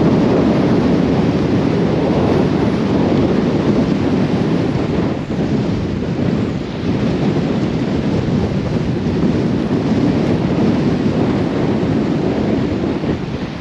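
Storm-force wind of about 50 mph buffeting the microphone: a loud, continuous rushing that eases slightly for a moment around five to seven seconds in.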